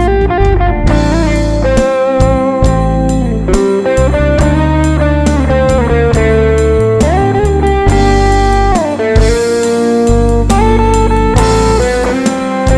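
Live band's instrumental break in a soft-rock ballad: an electric guitar plays the lead melody with bent, sliding notes over drums.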